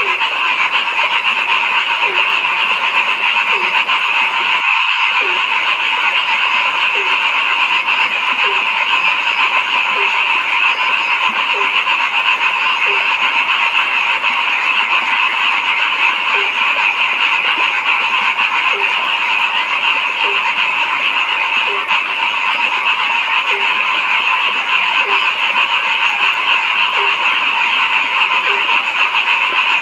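Frog chorus: a dense, steady trilling chorus, with one frog giving a short, low croak about every 0.7 seconds. The sound drops out briefly about five seconds in.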